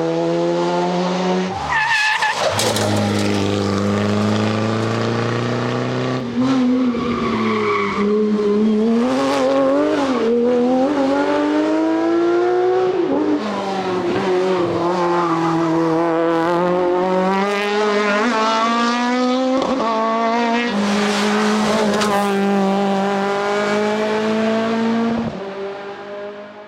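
Rally car engines at full throttle, pitch climbing and dropping as they change gear and lift off for corners. Several passes are cut one after another, and the sound fades out near the end.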